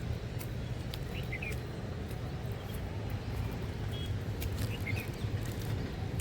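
A few short bird chirps, about a second in and again near five seconds, over a steady low rumble.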